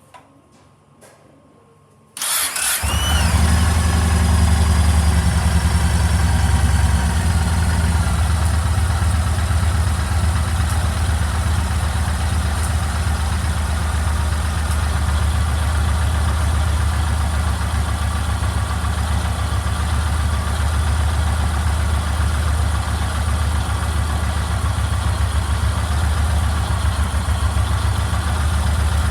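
Yamaha MT-01's large air-cooled V-twin engine started about two seconds in, catching at once and then idling steadily.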